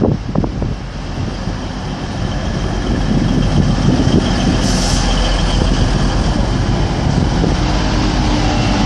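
Class 185 diesel multiple unit at the platform: its running noise grows about three seconds in and then holds as a steady rumble. A short high hiss comes about five seconds in.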